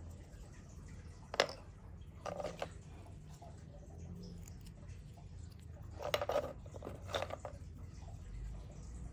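Small hard pieces of agarwood being handled, knocking and rattling against each other in four short bursts of clicks over a low steady hum.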